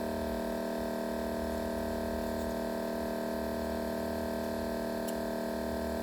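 Steady electrical hum with a buzzing edge, several constant tones held without change.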